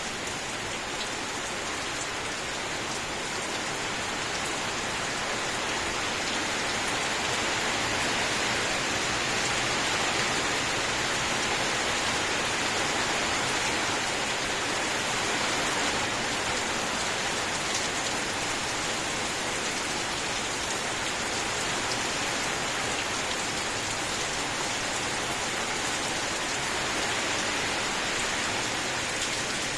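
Steady rain falling, an even hiss that swells slightly in the first half and holds steady after.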